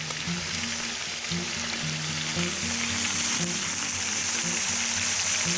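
Hare pieces sizzling in hot sunflower oil in a wide kazan-lid pan over a wood fire, the hiss growing louder as the meat's moisture cooks off and it browns. Background music with low notes plays under it.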